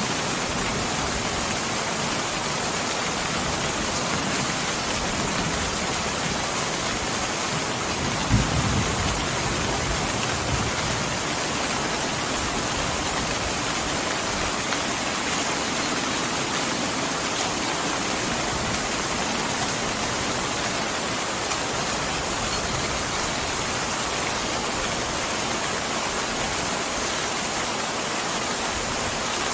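Steady rain falling, an even hiss without let-up, with one brief low thump about eight seconds in.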